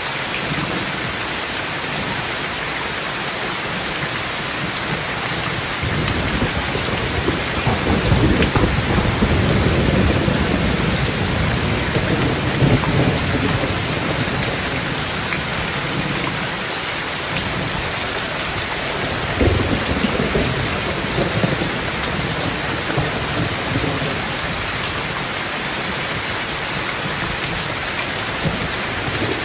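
Steady heavy rain with rolling thunder. A long low rumble builds about six seconds in and lasts roughly nine seconds, and a shorter rumble comes about twenty seconds in.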